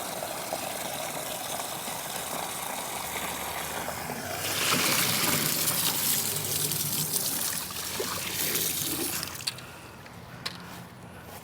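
Water poured from a one-gallon bucket into dry concrete mix, splashing steadily and getting louder about halfway through, then stopping near the end.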